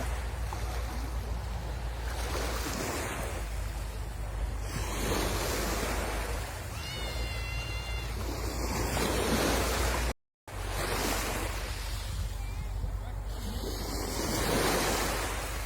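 Sea waves breaking and washing onto the shore, the surf swelling and falling every few seconds, with wind rumbling on the microphone. The sound cuts out completely for a moment about ten seconds in.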